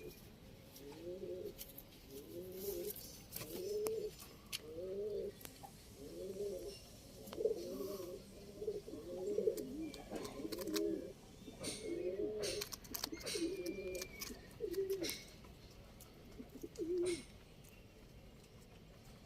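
Domestic pigeon cooing, a long run of short repeated coos, with scattered sharp clicks; the cooing stops about two seconds before the end.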